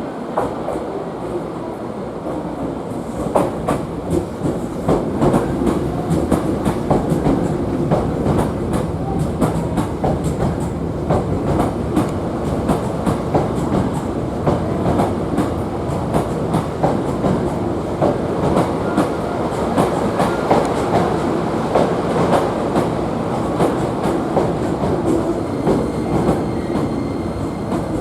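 Hankyu Kyoto Line electric train running at speed, a steady rumble with rapid clickety-clack of the wheels over the rail joints, growing louder about three seconds in.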